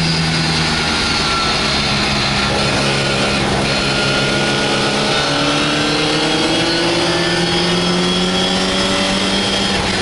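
Four-cylinder engine of an MGA race car at full throttle, heard from the open cockpit over a steady rush of wind and road noise. The engine note shifts pitch in steps in the first few seconds, then climbs steadily through the second half as the car accelerates.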